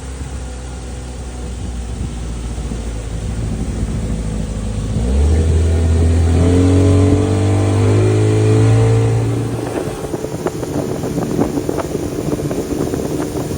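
Boat engine running, then speeding up about five seconds in and holding at higher revs before easing off near ten seconds. After that, wind and water rush and splash against the boat.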